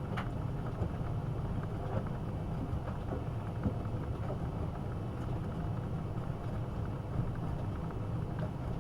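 AEG Öko-Lavamat 72520 front-loading washing machine turning its drum during a wash, laundry tumbling in water: a steady low rumble with faint sloshes and small knocks.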